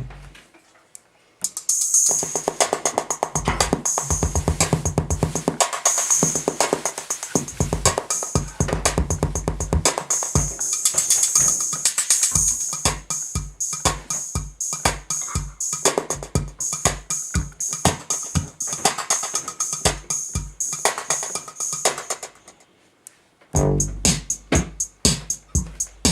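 KORG Kaossilator handheld synthesizer playing electronic drum-machine and synth patterns with a steady beat. It falls silent briefly just after the start and again near the end, each time coming back with a different sound program.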